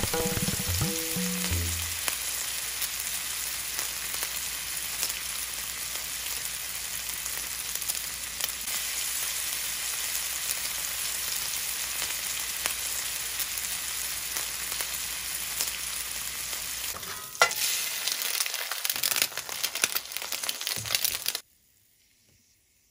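Slices of pork roll (Taylor ham) and hash browns sizzling on a hot griddle as a steady hiss. Near the end the sound turns louder and more uneven, with a few sharp clicks, then cuts off suddenly.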